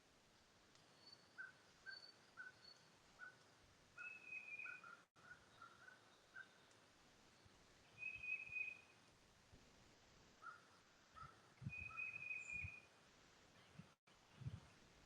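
Faint birdsong: one bird repeats a short, slightly falling trilled phrase about every four seconds, with scattered short chirps from other birds between. A few soft low thumps come near the end.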